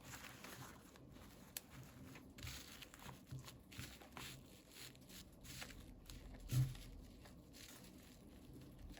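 Faint crinkling and tearing of toy packaging with small taps and rustles of handling, and one louder thud about two-thirds of the way through.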